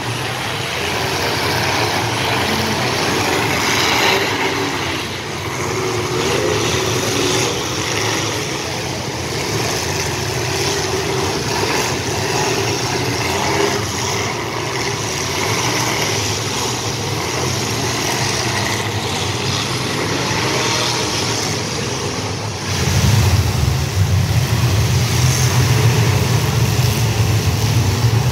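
Several bone-stock demolition derby cars running and revving together in the arena. The deep engine rumble grows louder about three-quarters of the way through.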